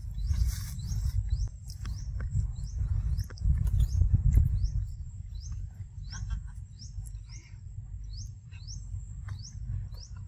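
A bird calling over and over, a short rising chirp about twice a second, over a low rumble that swells around four seconds in.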